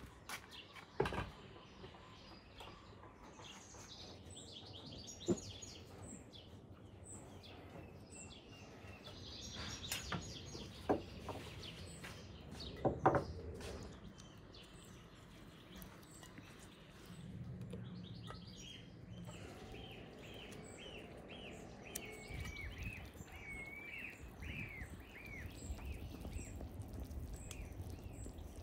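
Songbirds chirping, with a run of quick repeated chirps in the second half, over quiet outdoor ambience. A few sharp knocks and clicks from handling kitchenware and apricots are scattered through, the loudest about halfway through.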